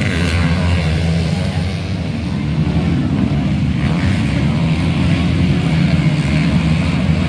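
Motocross bike engines running, a steady low drone.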